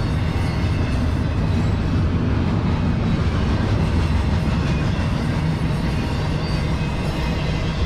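Double-stack intermodal freight cars rolling past: the steady rumble of steel wheels on rail, heaviest in the low end and unbroken.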